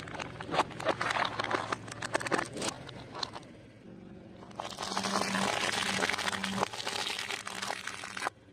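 Crisp fried food crunching and crackling as it is crushed, in dense runs of sharp crackles with a short quieter gap near the middle; the sound cuts off abruptly near the end.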